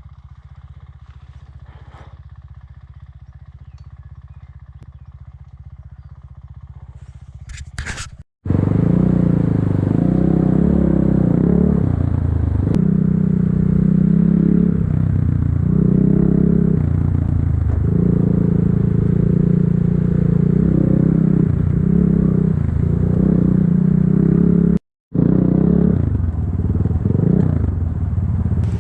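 Enduro motorcycle engine. It runs steadily and fairly quietly for the first eight seconds or so. After a short break it is much louder, with the revs rising and falling unevenly as the bike is ridden over rough ground.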